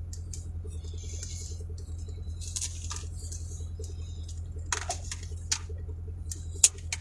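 Steady low hum inside a parked vehicle, with scattered light clicks and taps; the sharpest click comes near the end.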